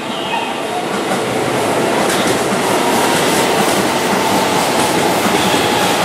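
Keihan 13000-series electric commuter train running past close by on a curve, its wheels clattering over the rail joints. The sound grows louder over the first couple of seconds, with a steady high tone running through it.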